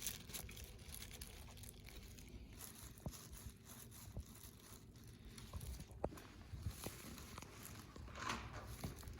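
Faint handling sounds as the top lids are fitted to the console cabinet: scattered light clicks and taps with a little rustling, and a brief cluster of scraping about eight seconds in.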